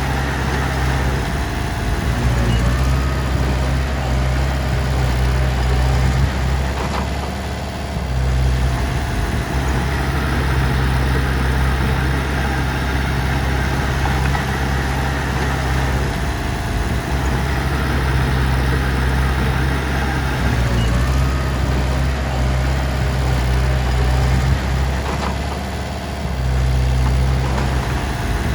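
Heavy diesel machinery engine running steadily, easing off briefly about every nine seconds before picking up again.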